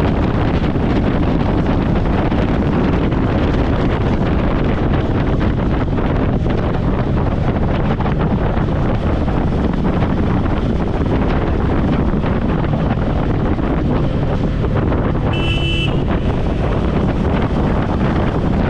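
Steady wind rush on a helmet-mounted camera's microphone while riding a motorcycle through traffic. A vehicle horn honks once, briefly, near the end.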